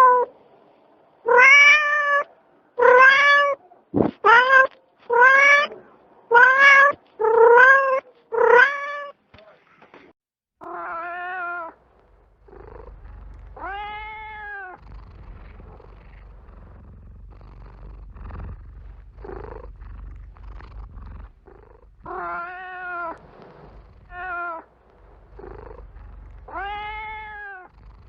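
Cat meowing: a quick run of about nine loud meows, one after another, in the first nine seconds, with a single sharp click about four seconds in. From about halfway a low purr rumbles underneath while the meows come fewer and softer, spaced a few seconds apart.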